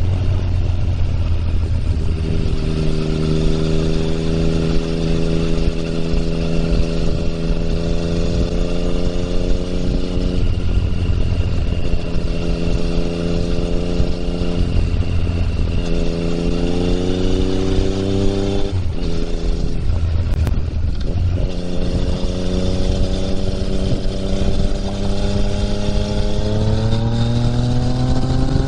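2020 Yamaha MT-09's three-cylinder engine through an Akrapovic exhaust, riding under throttle: the engine note holds steady and rises in pitch several times, dipping briefly about two-thirds of the way through.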